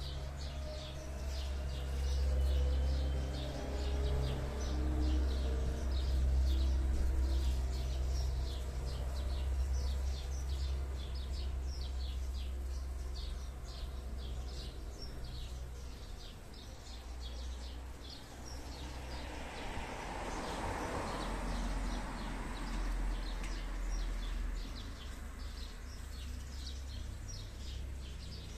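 Small birds chirping over and over, several short chirps a second, over a steady low rumble. A broad rushing sound swells and fades about twenty seconds in.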